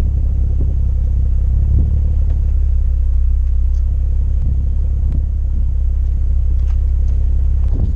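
BMW 330i straight-six running steadily through a Rogue Engineering aftermarket exhaust: a deep, even low rumble with no revving.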